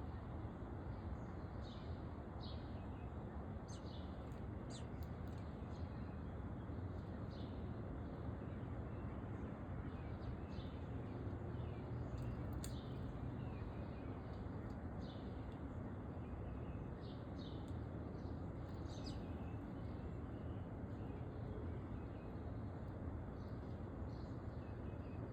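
Small songbirds giving many short, scattered chirps over a steady low background hiss and rumble.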